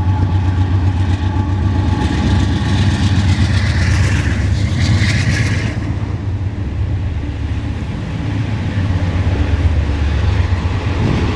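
Diesel-hauled freight train passing close by, with a deep, steady locomotive rumble. A higher rushing noise rises and fades between about two and six seconds in.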